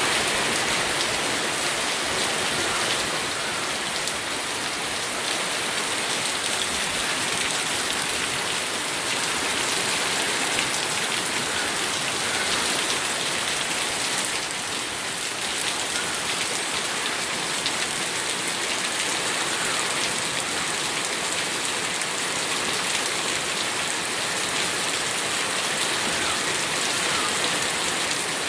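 Steady rain falling, a dense even hiss of many drops with fine ticks of individual drops striking a surface.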